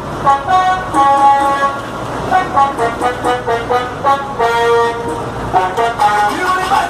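Musical vehicle horn playing a tune: a run of short held notes that step between pitches, each note steady.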